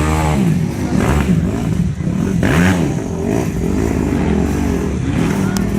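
Off-road motorcycle engines revving hard, the pitch rising and falling over and over as the throttle is blipped.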